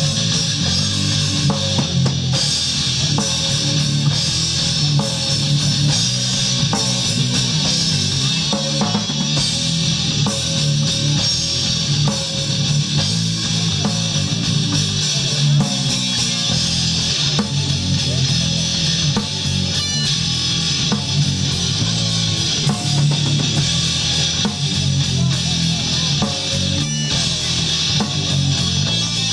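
Rock band playing live at a steady loudness: drum kit and electric guitar.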